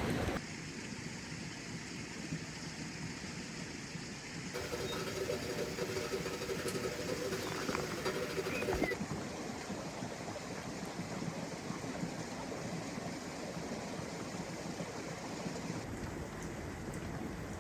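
Steady rain falling on the forest, a constant hiss that shifts in tone a few times. A faint low hum runs through the middle few seconds.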